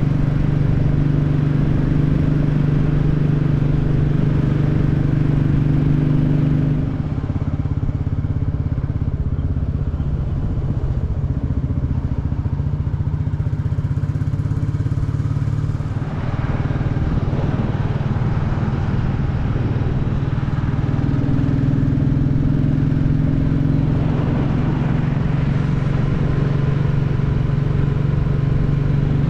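Single-cylinder Royal Enfield Classic 350 motorcycle engine running on the road, heard from the bike with wind and road noise. It holds steady, eases to a lower note about a quarter of the way in, dips briefly about halfway, and picks back up to its earlier note later on.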